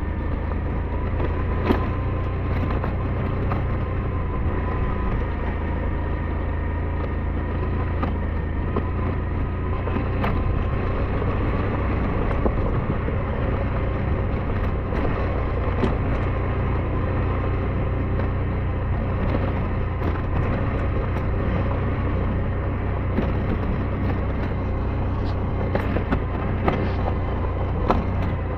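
SYM NH T 200 motorcycle engine running steadily while riding, over a constant low rumble, with a few sharp clicks and knocks scattered through.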